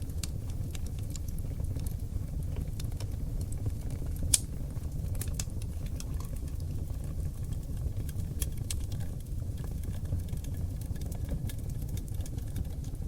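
Oak-log wood fire in a fireplace crackling: a steady low rumble of the flames with scattered sharp pops and clicks, the loudest pop about four seconds in.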